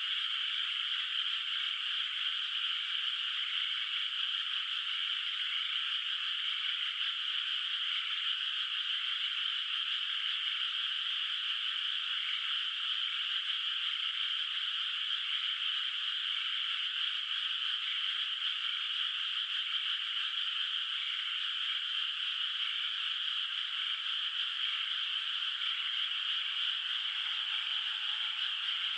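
Dense chorus of many rice-paddy frogs calling at once: a steady, fairly high-pitched croaking that never lets up.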